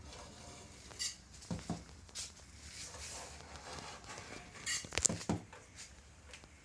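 Paint being scraped and rubbed off a motorcycle fuel tank during paint stripping: irregular short scraping strokes, with a sharp click or knock about five seconds in.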